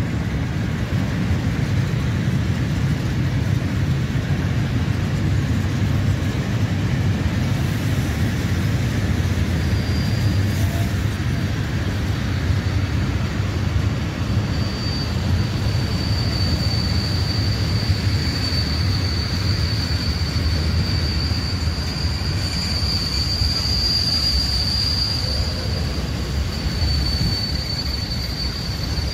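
Freight train of open coal wagons rolling slowly past, its wheels rumbling on the rails. From about ten seconds in a steady high brake squeal rises over the rumble as the train slows to a stop.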